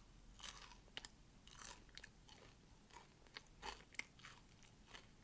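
Faint crunching and chewing of a stale, rock-hard hush puppy: a scattered series of short, crisp crunches with a few sharp clicks.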